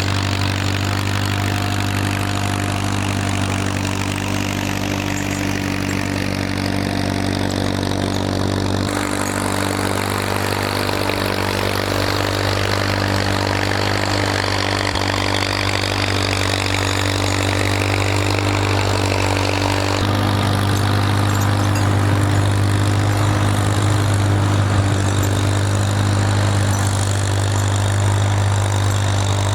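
Farmall tractor engine running steadily while pushing snow, a low, even drone that holds its pitch. The sound changes abruptly about 9 and 20 seconds in, as at cuts between shots.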